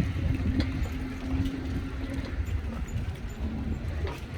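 Gusty wind buffeting the microphone in a fluctuating low rumble, with a steady low hum through about the first half.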